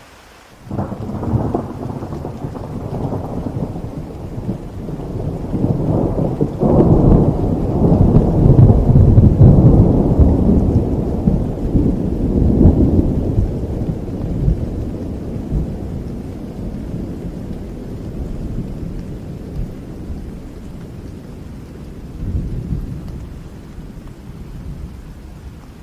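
Thunder during a rainstorm: a clap breaks in under a second in and turns into a long low rolling rumble. The rumble swells to its loudest around eight to ten seconds and slowly dies away, with a smaller swell near the end. Steady rain falls throughout.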